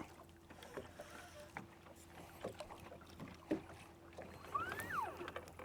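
Quiet handling noise in a small fishing boat: a few light knocks and clicks, with a faint steady hum. Near the end there is a short whistle that rises and then falls.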